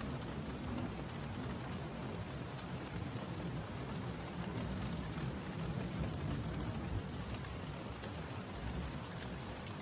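Steady rainfall, a continuous even hiss of rain on a surface with a low rumbling undertone.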